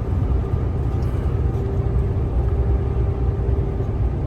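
Steady low rumble of a truck tractor's engine and tyres heard from inside the cab while driving, with a faint steady hum over it from about a second and a half in.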